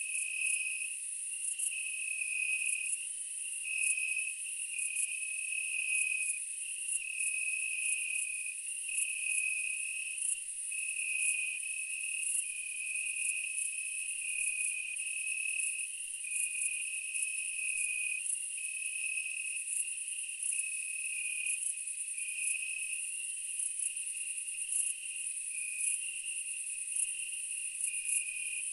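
Steady chorus of night insects, crickets among them: a pulsing trill that steps between two close pitches every second or so, over a continuous high, thin shrill. No rumble or blasts from the volcano can be heard.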